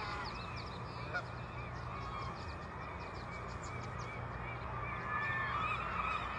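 Geese honking in a run of repeated calls that grows busier and louder about five seconds in, over a steady low background hum.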